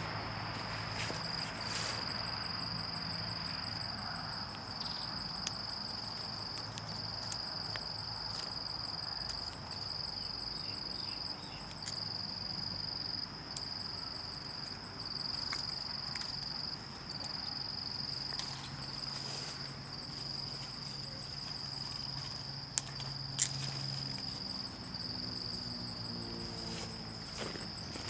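Insects trilling in a steady high-pitched drone that breaks off briefly every second or two, with two sharp clicks about three-quarters of the way through.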